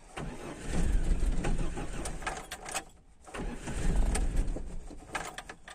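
IZh 2126 Oda being cranked on its starter twice, each try about two and a half seconds, in a cold start on choke without the engine catching; the owner puts the trouble down to the car's ignition problems.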